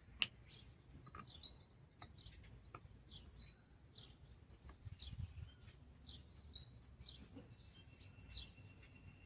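Faint bird chirping: short, repeated chirps, with one sharp click about a quarter second in.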